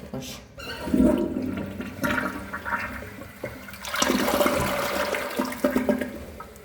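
Corona dual flush toilet flushing: water rushing into and out of the bowl in uneven surges, loudest between about four and six seconds in, then dying down near the end.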